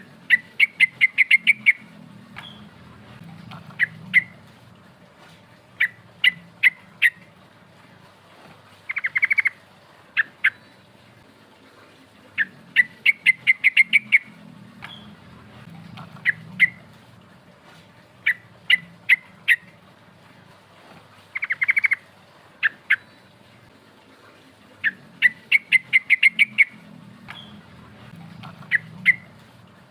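Yellow-vented bulbul (trucukan) singing in lively bursts of quick, sharp chirping notes, several per phrase, with phrases every few seconds and an occasional fast trill. The same sequence repeats about every twelve seconds, as in a looped lure recording.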